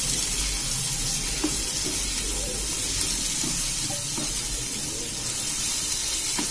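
Chopped tomatoes and crushed shallots frying in coconut oil in a nonstick pan: a steady sizzle, with the soft scraping of a spatula stirring them.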